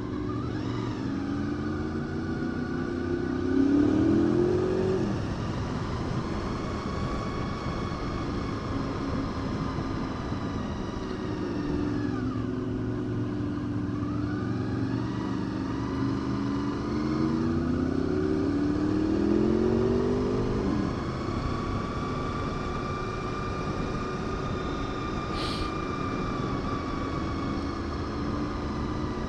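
Honda VFR800 V4 motorcycle engine on the move, pulling up through the revs twice, each time dropping back at a gear change, then holding a steady cruise. A steady rush of wind noise runs underneath.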